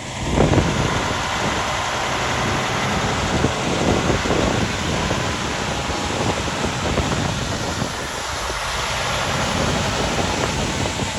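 Steady rumble of idling diesel fire trucks and street traffic, with wind gusting on the microphone.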